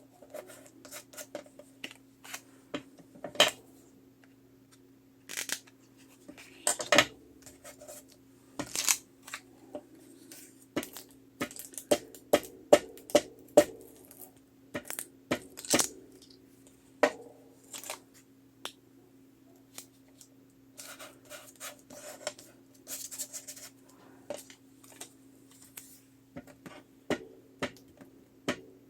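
Paper-crafting handling noises: scattered small clicks and taps of tools and supplies set down on a table, with brief scratchy rustles of paper and cardstock, over a faint steady hum.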